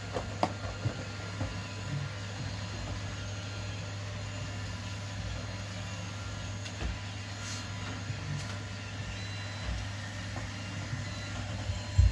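Robot vacuum running: a steady low motor hum with thin, steady high-pitched whines, broken by a few light clicks and knocks.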